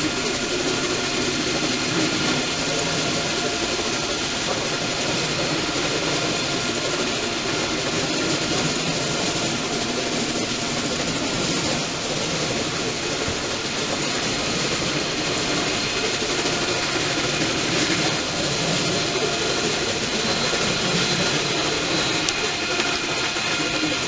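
Electric train in a railway station: a steady, loud mechanical noise with several steady high whining tones, even throughout.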